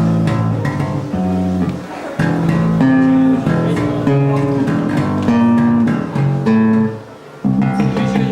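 Guitar music: plucked notes over a low bass line, changing chord every half second or so, with a brief drop about seven seconds in.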